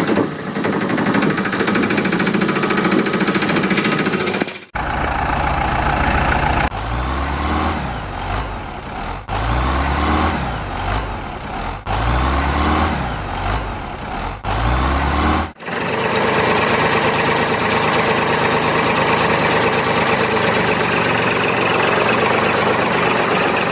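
An engine running, in three sections split by abrupt cuts about five and sixteen seconds in. The middle part rises and falls in pitch over and over, and the first and last parts run steadily.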